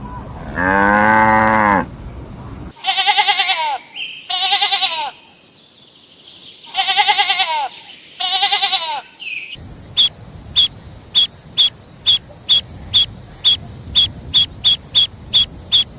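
A goat bleating four times in two pairs, each bleat a wavering, trembling cry. Before the bleats there is one short low animal call. After them comes a run of short sharp chirps or clicks, about two a second and getting quicker.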